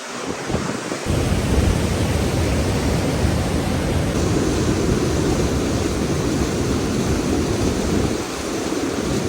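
Waterfall rushing with a steady roar, which gets heavier and deeper about a second in.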